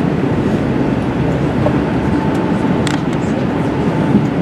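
Steady rumble and hiss inside an Airbus A380 cabin parked at the gate, with a faint steady whine and one brief click about three seconds in.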